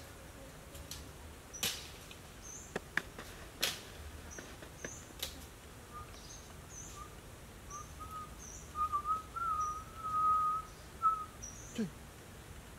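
Forest birds calling: a short high chirp repeated about once a second, and from about six seconds in a wavering whistled call lasting some five seconds. A few sharp clicks or snaps sound in the first five seconds.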